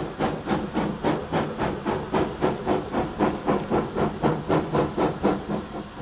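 Steam locomotive working under steam, its exhaust chuffing in a steady rhythm of just under four beats a second.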